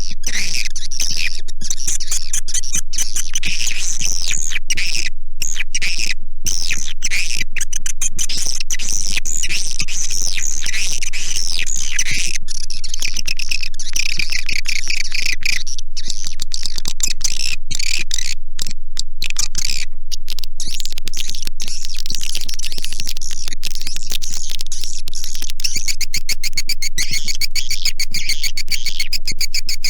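A recorded swiftlet lure call: a dense chorus of high twittering chirps from many swiftlets, loud and without a break. In the last few seconds the chirps quicken into a rapid, even rattle.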